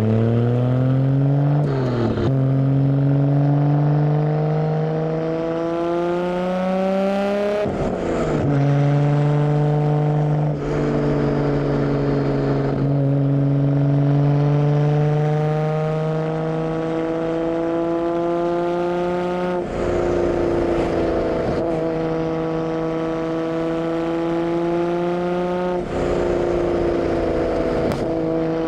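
Nissan Skyline R32 GT-R's twin-turbo straight-six exhaust, picked up close to the tailpipe, as the car pulls away and accelerates through the gears. The revs climb steadily, drop sharply at each of about four upshifts, then climb again.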